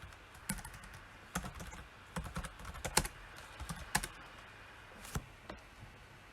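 Computer keyboard typing in short, irregular runs of keystrokes with brief pauses between them.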